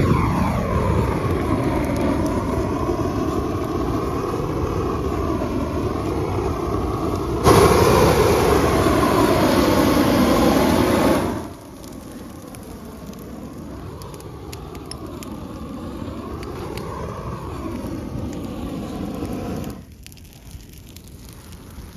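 Propane burner torch running with a steady rushing roar. It gets louder about seven and a half seconds in, drops back to a lower setting about four seconds later, and cuts down sharply near the end.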